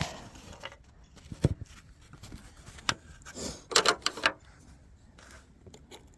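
Scattered clicks, knocks and light rattles of hand work on fuel lines and fittings, with a knock about one and a half seconds in and a brief cluster of rattling clicks around four seconds in.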